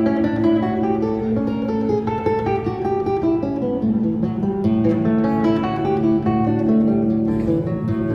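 Background music: acoustic guitar playing, plucked and strummed, over a held low note.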